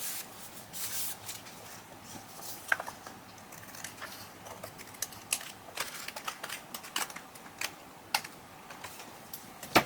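Irregular light clicks and short rustles of paper cutouts being handled and glued down onto a journal page.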